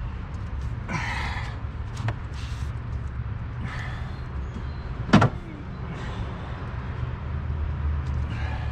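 Scattered knocks and clunks of the plastic air box and engine-bay parts being handled and pulled free, the sharpest and loudest clunk about five seconds in, over a steady low rumble.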